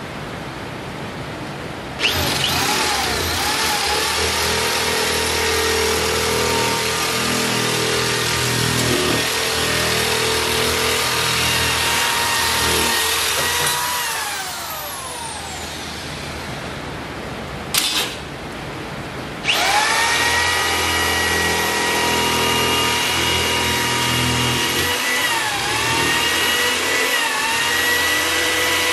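Electric drill starting suddenly and running under load, spinning down about twelve seconds in. After a brief blip it starts again and runs on, drilling into the workbench's new stainless steel top.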